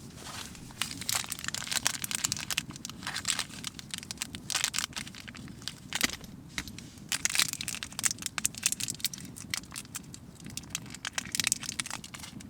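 Irregular clusters of crunching and crackling, made of many sharp clicks in short bursts every second or two.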